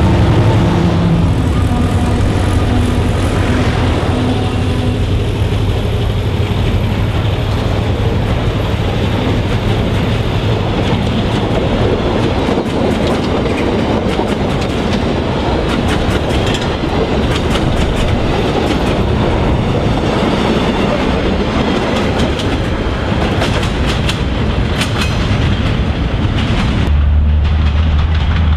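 Narrow gauge diesel freight train passing over a level crossing: a diesel locomotive's low engine drone at first, then the wagons rumbling by with a steady run of clicking wheels over rail joints. Near the end the clicking stops and a steady low engine drone takes over.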